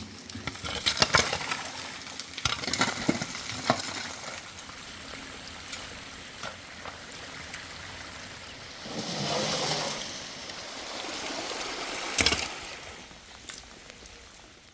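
Rain falling in a steady hiss, with bursts of irregular crackling taps, a louder swell about two-thirds of the way in, and one sharp knock near the end.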